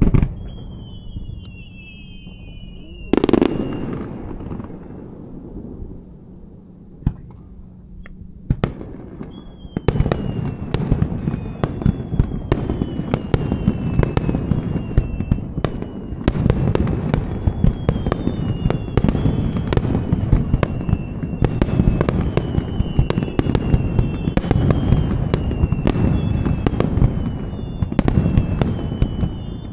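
Fireworks display: a loud burst about three seconds in, a quieter lull, then from about ten seconds a dense barrage of rapid bangs and crackling with high falling whistles repeating through it.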